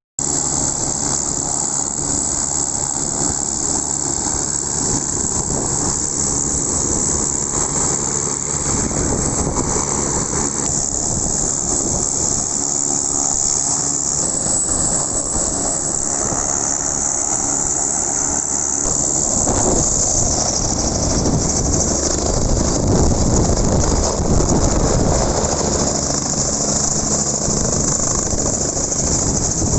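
Helicopter running steadily, a dense engine and rotor noise with a steady low drone and a strong high hiss, growing fuller and slightly louder about twenty seconds in.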